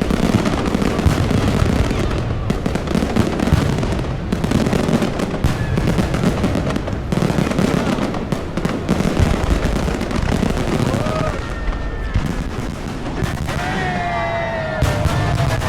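Aerial fireworks going off in a dense, continuous barrage of rapid bangs and crackling bursts.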